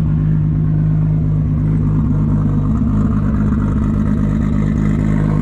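Nissan Silvia S15 drift car's engine running loud and steady, a low even drone with little change in pitch.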